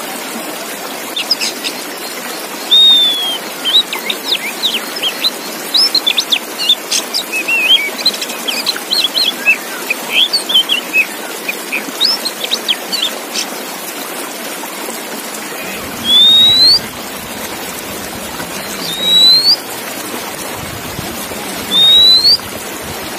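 Oriental magpie-robin (kacer) singing: a quick run of varied chirps and short notes, then three loud rising whistles a few seconds apart, over a steady background hiss.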